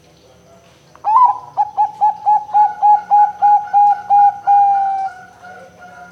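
Zebra dove (perkutut) cooing: a rising opening note about a second in, then a quick run of about a dozen short coos at roughly three a second, ending on a longer held note, with fainter notes trailing after.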